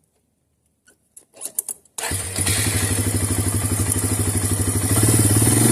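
A few faint clicks, then about two seconds in the Suzuki Eiger 400 ATV's engine comes in abruptly and runs steadily with an even, rapid pulse, getting a little louder near the end.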